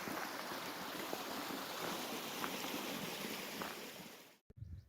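Steady rushing of a hill burn (small stream) running over stones, even and without pitch; it cuts off suddenly near the end, leaving faint low thuds of wind on the microphone.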